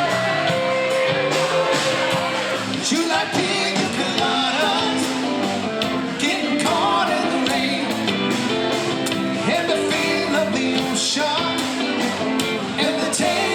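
A band playing yacht rock, a smooth soft-rock style, with a lead vocal over a steady drum beat.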